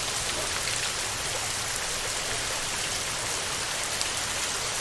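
Heavy rain falling on a metal roof: a steady, dense hiss with individual drops ticking through it.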